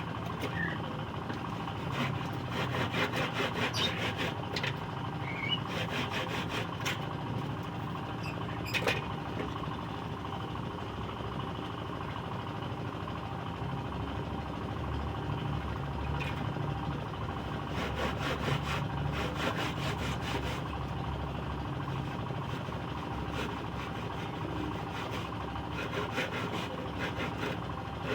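Hand saw cutting scrap wood in several bouts of quick back-and-forth strokes, with pauses between them, over a steady low hum.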